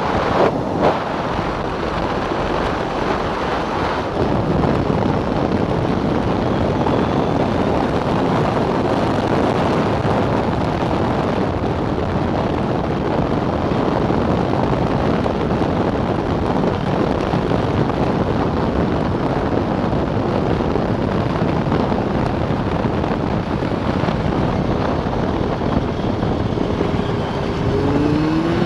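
Snowmobile running at speed with heavy wind rush on the microphone. Near the end the engine pitch rises as the sled accelerates.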